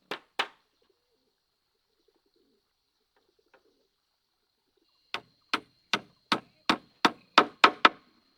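Repeated sharp knocks of hand-tool work: two strikes, then after a pause of about four seconds a run of nine strikes at about three a second, growing louder toward the end. A faint steady high tone sounds underneath.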